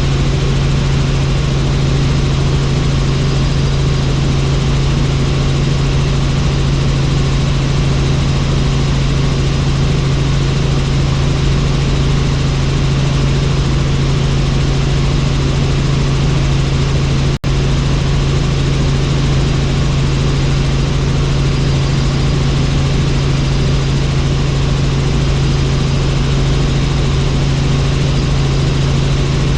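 Helicopter in flight: a steady, loud drone of rotor and engine, with a strong constant low hum. It cuts out for an instant about seventeen seconds in.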